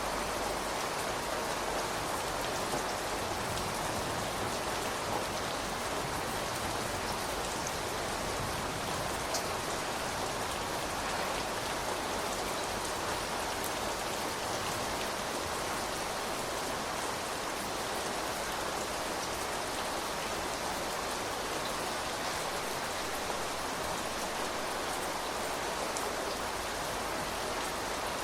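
Steady rain falling, drops pattering on surfaces, with a few louder single drops standing out now and then.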